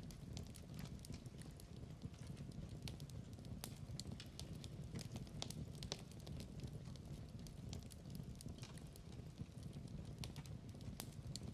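Wood fire in a fireplace crackling: a steady low rumble of flames with irregular sharp pops and snaps scattered throughout.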